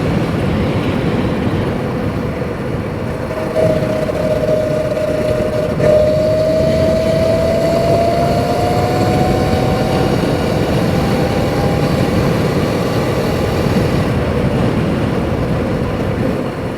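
Sur-Ron Light Bee X electric dirt bike being ridden, with a steady rushing noise throughout. About four seconds in, a thin motor whine appears and slowly rises in pitch as the bike gathers speed, fading out after about twelve seconds.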